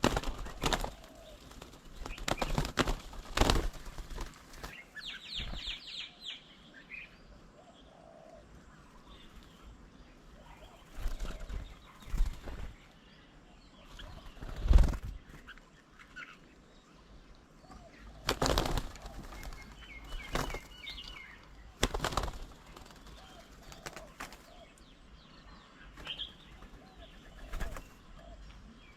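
Birds' wings flapping in short flurries, several times, as birds fly onto and off a feeding table. A quick run of high chirps comes about five seconds in.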